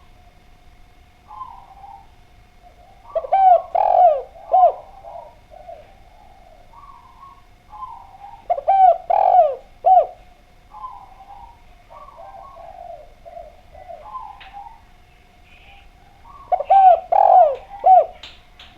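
Spotted dove (derkuku) cooing. It gives three loud phrases of a few arched coos each, one every five to eight seconds, with softer coos in between.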